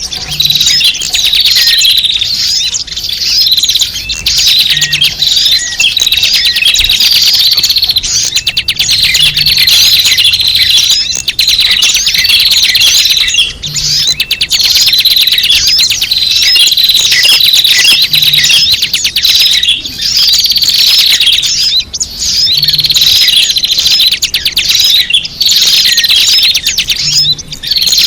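Loud, dense chorus of many small birds chirping and twittering at once, a recording played to lure small birds (suara pikat). The same pattern comes round about every four and a half seconds, like a repeating loop.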